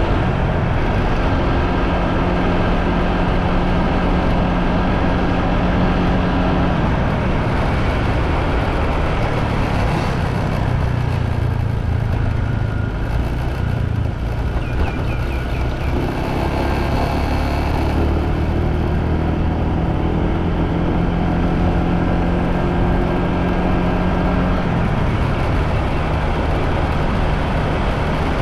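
Motorbike engine running on the move, with steady road and wind noise. The engine note drops a few seconds in, stays lower for a stretch in the middle, rises again past the halfway point and drops once more near the end.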